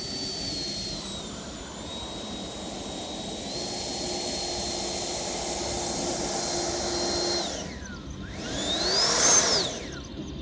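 Electric ducted fan of a radio-controlled Yak-130 model jet whining in flight, its pitch stepping down and up with the throttle. About three-quarters in the pitch drops steeply, then climbs and falls again as the model makes a loud close pass near the end.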